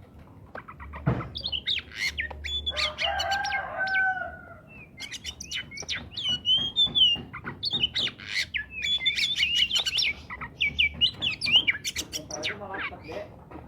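Oriental magpie-robin (kacer) singing in full voice: a rapid, varied string of sharp chirps, clear whistles and clicks, with a lower, drawn-out call about two to four seconds in.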